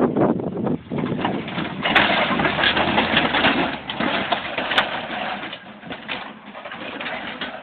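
A lawn mower being crushed under a truck's tyres: dense, loud crunching and cracking of its body, heaviest in the middle and dying down near the end.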